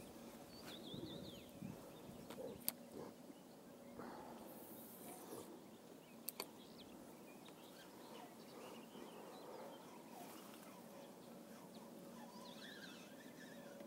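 Quiet reed-bed ambience with faint bird calls about a second in and again near the end, broken by two sharp clicks a few seconds apart.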